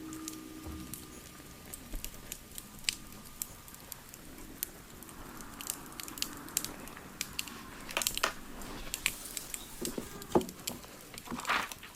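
Wood fire crackling, with scattered irregular pops and snaps, the loudest about ten seconds in, and a short rustling noise near the end.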